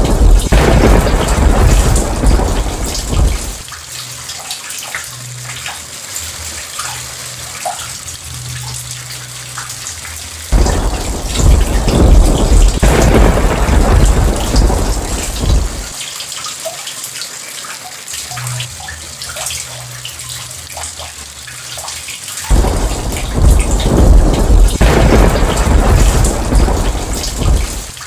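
Rain falling steadily with three long rolls of thunder, each rumbling for several seconds and coming about every eleven seconds. Between the rolls the rain patters with distinct drops.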